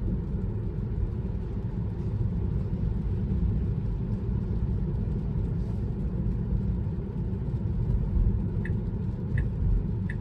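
Steady low road and tyre rumble heard inside a Tesla's cabin as it drives on rain-wet roads. Near the end a turn signal starts ticking about every 0.7 seconds.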